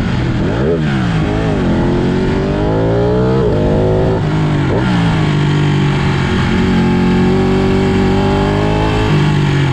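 Ducati Panigale superbike engine revving on the move, its pitch dipping and rising several times in the first five seconds, then climbing slowly and dropping suddenly at a gear change about nine seconds in.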